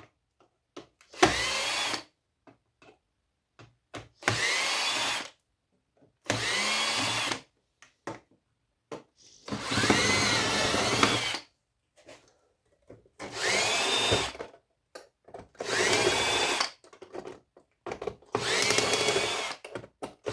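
Power drill-driver backing out Phillips screws from electronic equipment in seven short runs of a second or two each. Each run starts with a rising whine as the motor spins up, with short pauses between screws.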